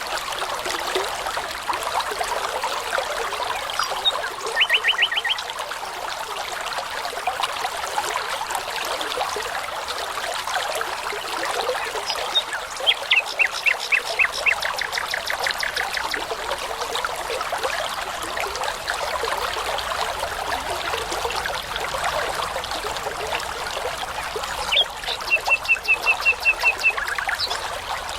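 Babbling brook running steadily, with a nightingale singing over it in short phrases of fast repeated notes: a brief one about four seconds in, a longer run around the middle, and another near the end.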